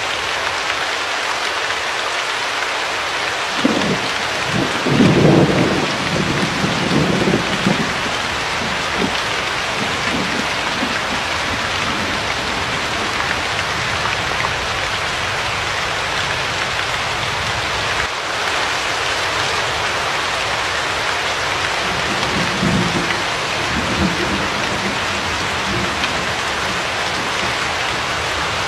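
Steady rain hissing, with a roll of thunder rumbling for several seconds about four seconds in and a fainter rumble of thunder later on.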